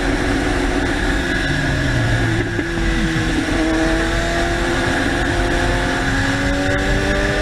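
Motorcycle engine running under way with wind noise, its pitch climbing slowly as it accelerates over the second half.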